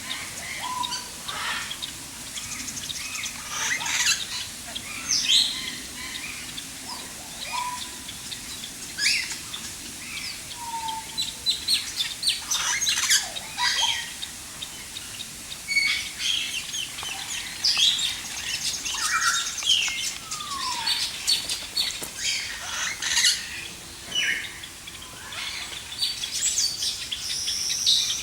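A mix of many birds chirping and calling in an aviary: short, scattered chirps and squeaks, some sliding up or down in pitch, overlapping throughout.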